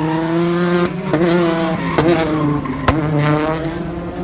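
Citroën DS3 R5 rally car's turbocharged four-cylinder engine running hard under load, its note shifting in pitch, with three sharp cracks about a second apart; it fades slightly near the end.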